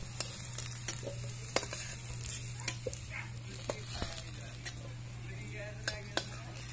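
Cubed vegetable pieces frying in oil in a black iron kadai with a steady sizzle, while a flat metal spatula stirs and scrapes them, clicking against the pan every half second to a second.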